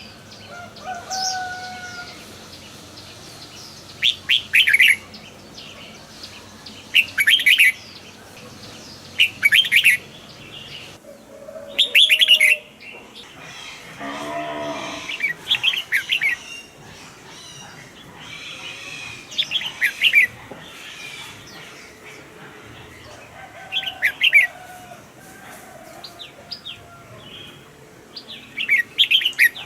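Red-whiskered bulbul singing: short, loud whistled phrases repeated every two to three seconds. About halfway through, a lower, drawn-out animal call sounds more quietly.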